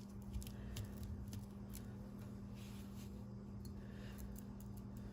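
Faint, scattered light taps and soft rustles of hands working over paper on a craft table, dabbing water onto the inked paper, over a steady low electrical hum.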